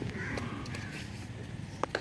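A crow cawing a few times, with two short clicks near the end.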